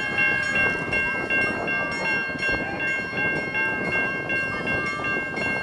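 A bell ringing rapidly and steadily, about three strokes a second, over the murmur of a crowd around the railway.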